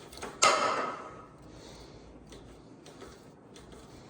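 A single sharp metallic clank about half a second in, ringing briefly as it fades, followed by a few faint clicks.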